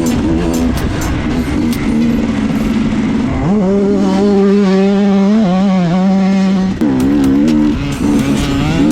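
Dirt bike engine running under throttle, the pitch shifting as it revs. About a third of the way in it revs up sharply and holds at steady high revs for about three seconds before dropping back.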